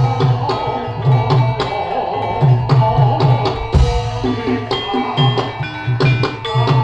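Javanese gamelan music: kendang hand drums play a busy rhythm over ringing notes from struck metallophones.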